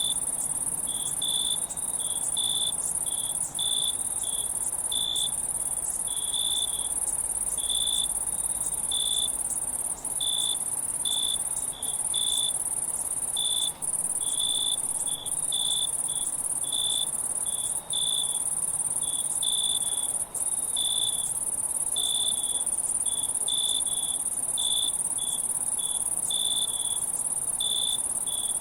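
Insects chirping: a steady high-pitched trill with short chirps repeating irregularly, one or two a second, and a few brief dropouts.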